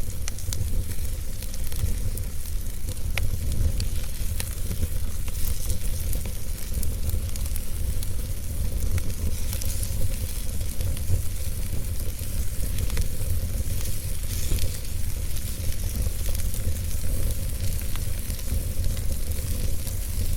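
Fire crackling, with scattered sharp pops over a steady low rumble and hiss.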